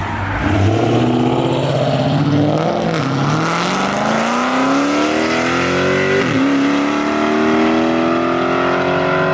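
A car engine accelerating hard, pitch climbing through the gears with two upshifts, about three seconds and about six seconds in.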